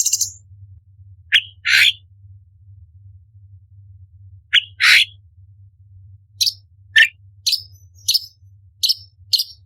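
Orange-bellied leafbird singing in short sharp bursts: a buzzy rattle that stops just after the start, two pairs of quick two-part calls, then a run of short, high, falling notes about two a second. A faint low hum runs underneath.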